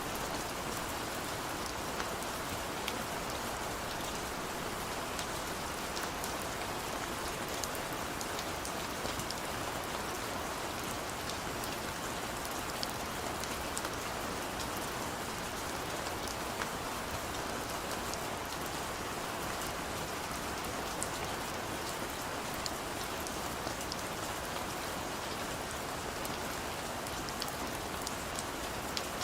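Heavy rain falling steadily, an even hiss with many small sharp drop ticks scattered through it.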